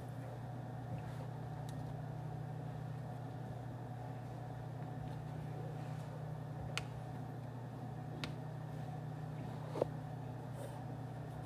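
Steady low hum of office room ambience, like ventilation or air-conditioning, with three short sharp clicks or taps in the second half, the last the loudest.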